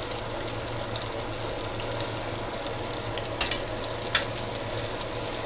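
Food frying in a pan: a steady sizzle over a low hum, with two sharp clicks about three and a half and four seconds in.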